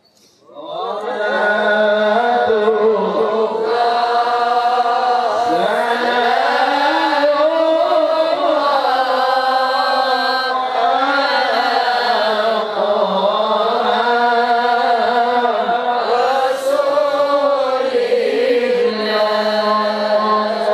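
A male qari reciting the Quran in melodic tilawah style: after a brief pause for breath, one long sustained phrase with wavering, ornamented pitch that rises and falls.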